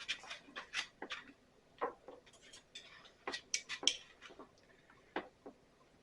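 Irregular sharp clicks and light knocks, a couple of dozen in a few seconds, from hand tools and the plastic parts of a backpack blower being handled during disassembly.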